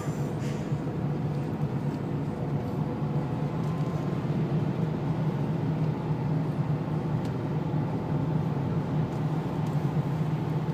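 Renault Laguna wagon's 2-litre turbo diesel engine running at a steady pace with tyre and road noise on a wet track, heard from inside the cabin.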